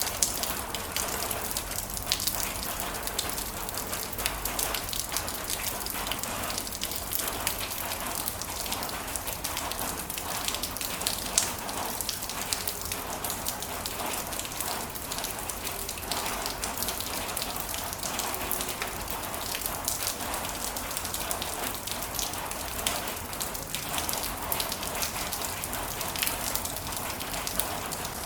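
Heavy rain falling steadily, a dense hiss with many sharp drops ticking on hard surfaces.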